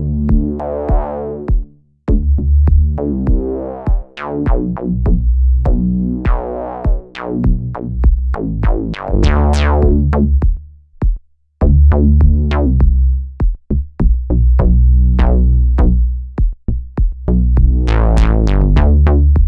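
Synthesizer sequence run through a Eurorack voltage-controlled filter and amplifier, its input driven hot for a gritty tone, with the filter sweeping open and shut over electronic drum hits. The sound cuts out briefly about two seconds in and again about eleven seconds in.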